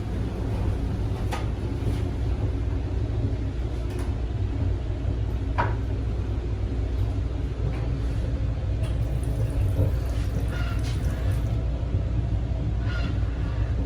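Steady low rumble of an Amtrak Venture passenger car running along the track, heard from inside, with a few light clicks and knocks scattered through it.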